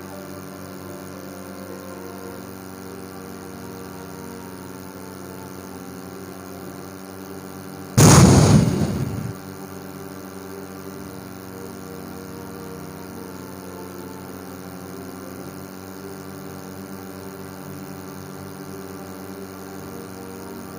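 A steady hum of level sustained tones, broken about eight seconds in by one loud sudden burst that dies away over a second or so.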